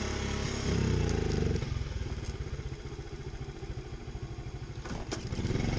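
Pit bike engine running, dropping about a second and a half in to an idle with an even, rapid putter. A couple of sharp clicks near the end.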